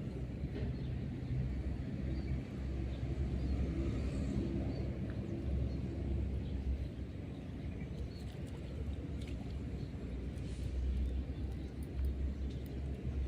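Uneven low outdoor rumble, with faint high chirps and ticks now and then.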